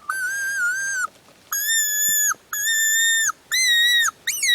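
A hand-blown game call sounding five long, even squealing notes in a row, each lasting nearly a second with short breaks between, the last one swooping up at its start; it is being blown to draw a blue jay closer.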